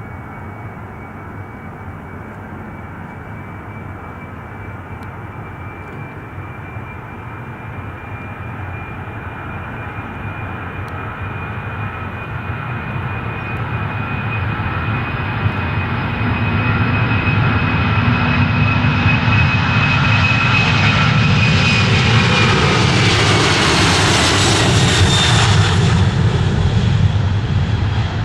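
Jet airliner's engines growing steadily louder as it approaches, a high steady whine over a low rumble. Near the end the whine drops in pitch as the aircraft passes close by, and the noise peaks before starting to ease.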